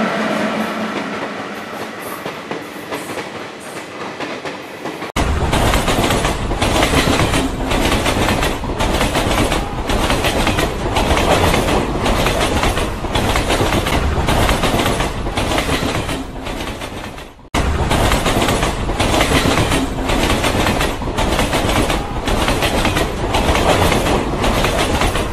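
A passenger train running past and fading away over the first five seconds. Then, after a sudden cut, a train at speed heard from inside a carriage: a loud steady rumble with a regular clickety-clack of wheels over rail joints, broken once by a brief drop about two-thirds of the way through.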